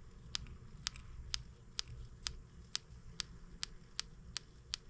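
M25 sideshaft engine's ignition spark snapping: a row of sharp, faint clicks about twice a second, the sign that the ignition is firing.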